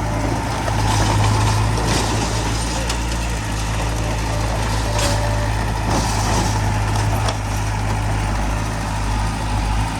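Heavy diesel construction machinery running steadily with a deep, even hum, with a few short bursts of noise on top.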